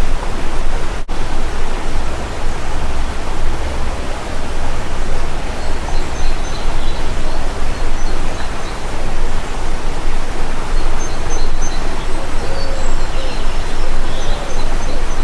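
Steady rush of a stream's running water, with faint, short, high bird chirps scattered through it.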